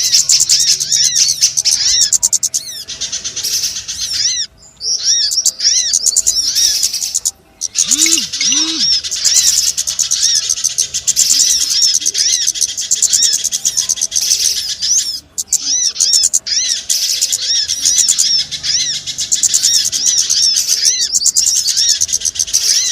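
Bird-lure (pikat) recording of small birds calling: a dense, unbroken stream of rapid, high-pitched chirps, with a few brief breaks.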